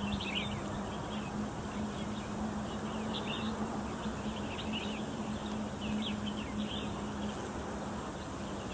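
Small birds chirping in short, scattered calls from the scrub, over a steady low hum.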